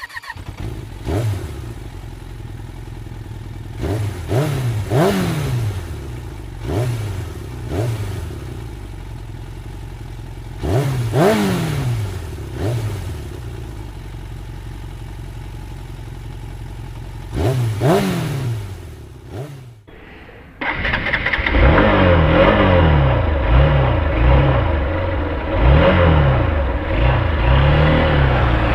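Hero Xtreme 160R's single-cylinder 160cc engine idling, blipped up and back down in a series of short throttle revs. After a brief break at about twenty seconds it is louder, revving up and down repeatedly.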